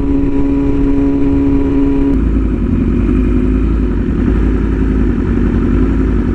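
Inline-four sport bike engine running steadily on the road. About two seconds in the note changes: the higher steady tone gives way to a lower, wavering one with a heavier deep rumble.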